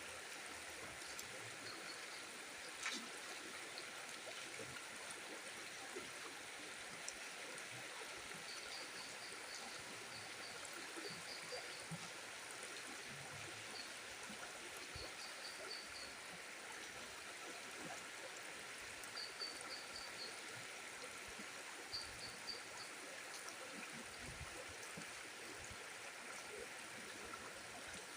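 A river running steadily, an even water rush, with short high trills breaking in now and then.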